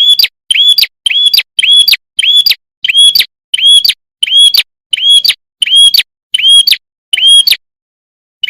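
Lure-call recording of a prenjak kepala merah singing: a loud, clear call repeated about twelve times, a little under two a second. Each call is a short up-swept whistle ending in a sharp click, and the calls break off with a pause of about a second near the end.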